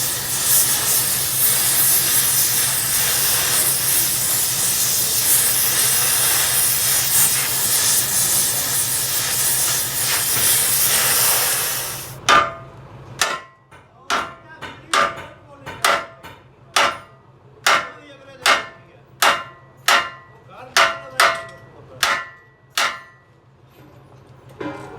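A loud, steady hiss that cuts off suddenly about halfway through, then a hammer striking metal about fifteen times, under a second apart, each blow ringing.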